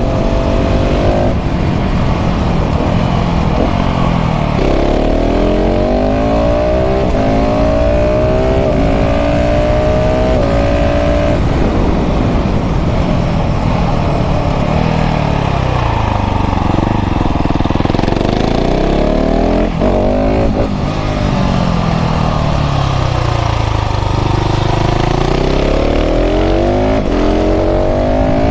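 KTM 690 SMC R's single-cylinder LC4 engine through a full LeoVince exhaust, ridden hard: revs climb in steps through quick upshifts, then drop away under engine braking and build again, twice.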